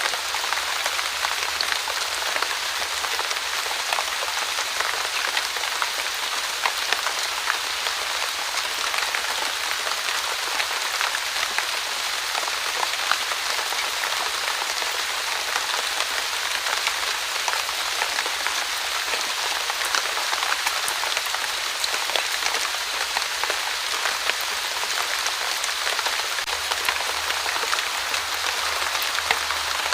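Light, steady drizzle falling on a surface, an even hiss dotted with the small ticks of individual drops.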